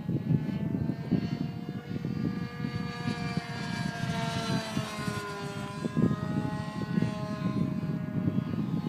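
Glow-fuel engine of a radio-control P-51 Mustang model plane, running at high speed in flight. Its whine drops in pitch about halfway through as the plane passes, then holds steady. Wind buffets the microphone throughout.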